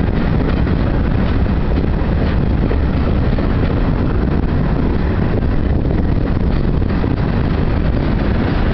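Freight train rolling past: a steady, loud rumble of steel wheels on rail, with faint scattered clicks.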